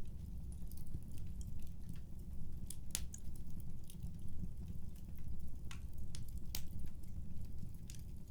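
Fireplace crackling: irregular sharp pops and snaps over a steady low rumble, with a louder pop about three seconds in.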